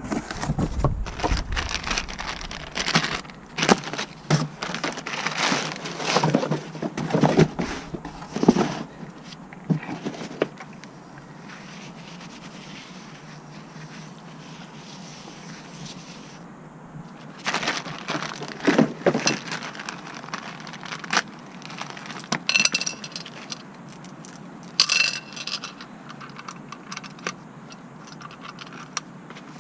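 Metal tools and parts clattering, clinking and scraping in bursts, busiest at the start, with a few short ringing metallic clinks past the twenty-second mark.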